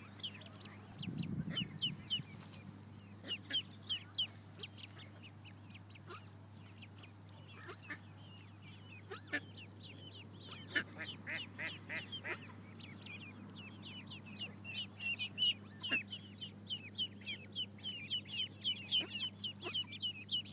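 Ducklings peeping: many short, high, downward-sliding peeps, scattered at first and coming thick and fast in the last few seconds, over a steady low hum.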